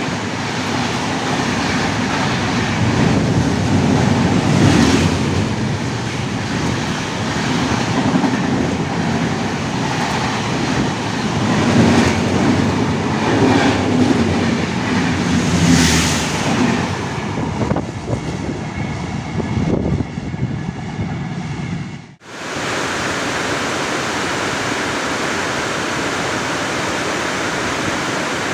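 Indian express train passing at speed in heavy rain: the rumble and rattle of the coaches mixed with the hiss of rain. About 22 seconds in it breaks off abruptly, and a steady hiss of rain follows.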